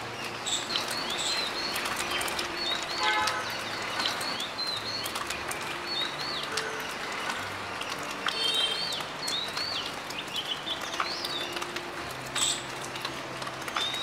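Small songbirds chirping: many short, quick chirps repeated all through, with a brief buzzy call about three seconds in.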